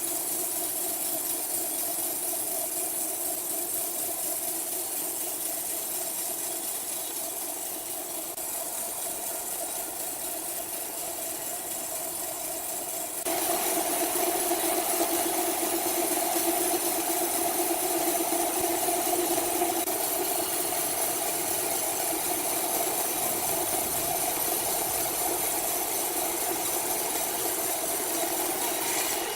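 Sawmill machinery running with a steady, humming engine note. About halfway through the sound jumps suddenly to a louder, rougher running that holds to the end.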